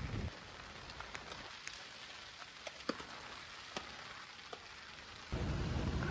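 Rain hissing steadily on the tent, with scattered drops ticking at irregular intervals. About five seconds in, a louder low rumble comes in suddenly.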